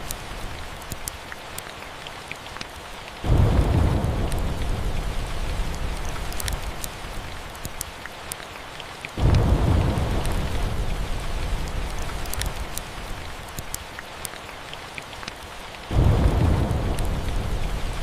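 Steady rain with three rolls of thunder that start suddenly about 3, 9 and 16 seconds in, each rumbling low and fading over several seconds. Sharp crackles of a fireplace fire sound here and there.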